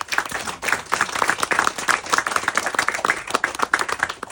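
Audience applauding, many hands clapping densely at the end of a poem.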